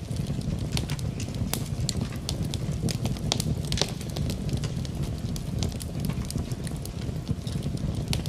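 Wood fire crackling in a fireplace: irregular sharp pops and snaps over a steady low rushing noise, mixed with rain.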